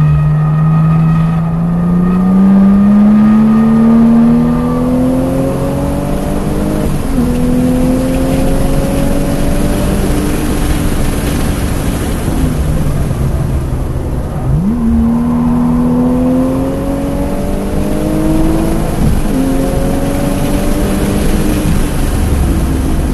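2001 Porsche 996 Turbo's twin-turbo flat-six pulling hard under full throttle, heard from inside the cabin. Its pitch climbs through the gears, dropping sharply at manual upshifts about 7 and 19 seconds in, with a quick rev blip in the middle, over steady road and wind noise.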